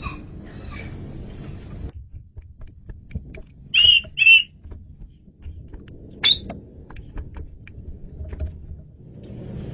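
Asian pied starling calling: two loud, short notes about half a second apart near the middle, then another about two seconds later, with scattered quieter clicks between and a low background rumble.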